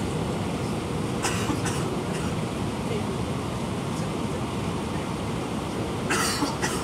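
Steady rumble of an Airbus A319's cabin, engines and airflow heard from a window seat, with a few short hissing rattles about a second in and again near the end.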